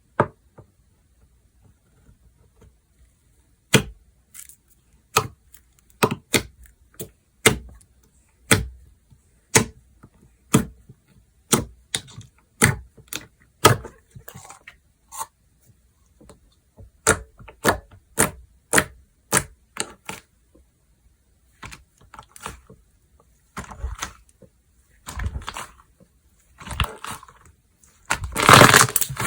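Slime being pressed and poked by hand, giving a string of sharp clicking pops about one or two a second. Later these turn into longer, louder crunching and crackling squishes, the loudest near the end.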